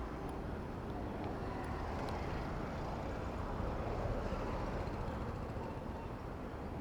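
Steady city traffic noise heard while riding a bicycle: vehicle engines and tyres running with a low rumble.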